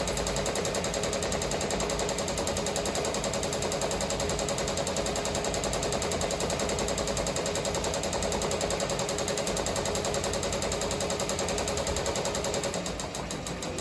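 Ricoma MT-1501 multi-needle embroidery machine stitching: a fast, steady, even mechanical tapping that dies down near the end.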